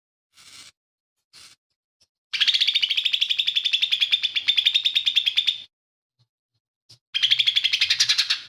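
Cucak ijo mini (lesser green leafbird) singing: a few faint short calls, then a loud, fast, evenly pulsed rattling trill lasting about three seconds, and another trill starting near the end.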